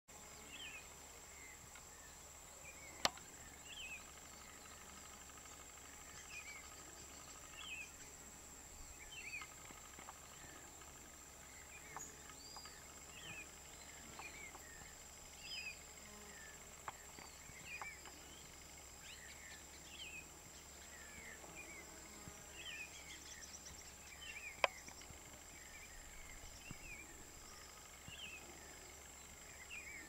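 Birds calling: many short, high, falling notes repeated every second or so, over a steady thin high-pitched tone. Two sharp clicks, the loudest sounds, come about three seconds in and again a few seconds before the end.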